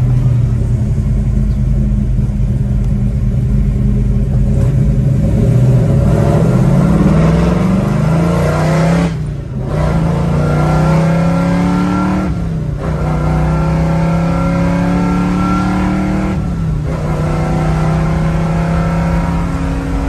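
1966 Chevrolet Chevelle SS396's V8 engine, heard from inside the cabin, pulling hard with its pitch climbing. It breaks off briefly for gear changes about 9, 12.5 and 16.5 seconds in, then holds a steadier pitch toward the end.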